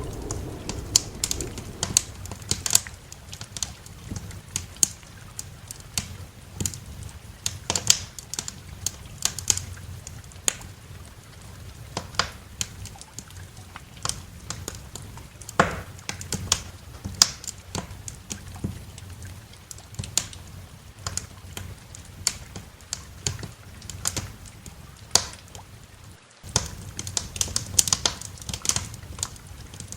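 Wood fire crackling: irregular sharp pops and snaps over a low steady rumble, with a brief break in the sound near the end.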